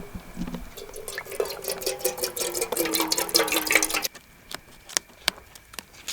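Ready-made soup stock being poured into a cooking pot: a splashing pour for about three seconds, then a few separate drips as the pour ends.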